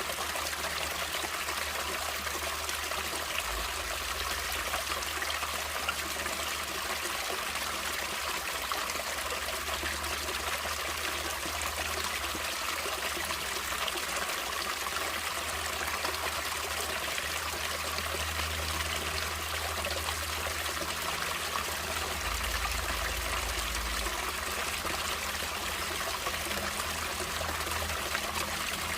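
Natural running water, a stream flowing with a steady, continuous trickling rush.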